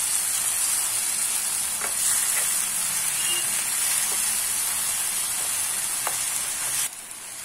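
Grated tomato and onion masala sizzling in oil in a nonstick kadai while a wooden spatula stirs and scrapes it. The steady frying hiss drops sharply quieter near the end.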